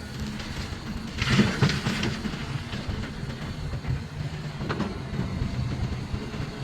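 Large Hitachi 890 excavator's diesel engine running steadily under load while it loads overburden. There are two louder, noisier bursts, a strong one about a second in and a weaker one just before five seconds.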